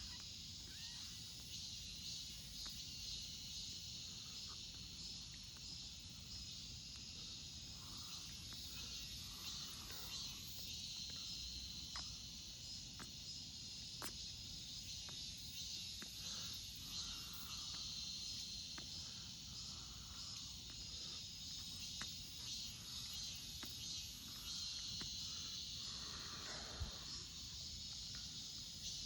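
Steady, unbroken chorus of summer insects, high-pitched, with a few faint clicks over it.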